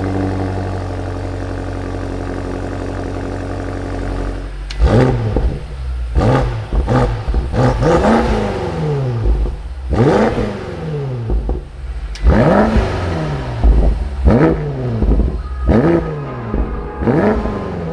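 BMW X6 M's 4.4-litre V8 idling steadily, then blipped repeatedly from about five seconds in: about ten quick revs, each rising sharply and dropping straight back to idle.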